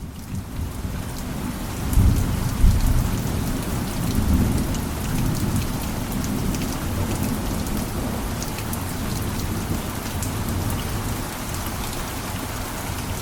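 Steady rain falling, with individual drops ticking close by. A low rumble of thunder swells about two seconds in and rolls on for a few seconds before easing back under the rain.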